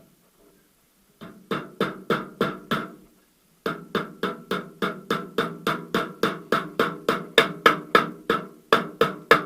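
Steady hammer taps driving the right drive-shaft oil seal into the VAZ manual gearbox housing, each with a short metallic ring. A handful of taps, a brief pause, then a longer run at about three or four a second.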